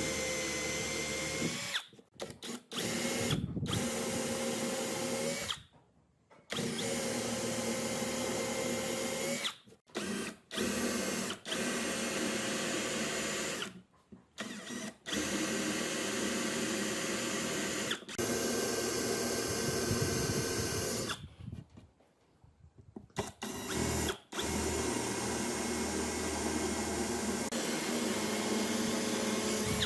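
A power tool running in stretches of a few seconds, stopping and starting again several times, with a steady pitch while it runs.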